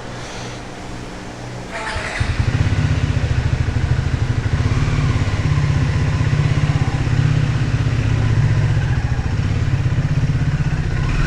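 Triumph Speed 400's single-cylinder engine running. It grows much louder about two seconds in and then holds a steady, fast pulsing beat.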